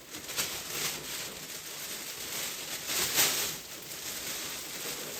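Plastic gift basket wrap bag rustling and crinkling as it is handled, with the loudest crinkle about three seconds in.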